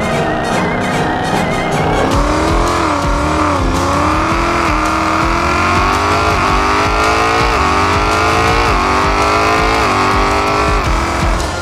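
2018 Mustang GT Performance Pack's 5.0-litre V8 driven hard. From about two seconds in, its note climbs and drops back sharply, again and again, roughly once a second. Music plays underneath.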